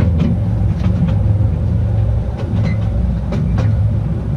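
The petit train d'Artouste, a small narrow-gauge tourist train, running along its track: a steady low rumble with a faint steady whine and irregular sharp clicks from the wheels on the rails.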